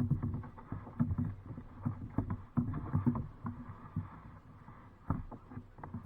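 Kayak on the water: irregular knocks and thumps of the paddle and gear against the hull.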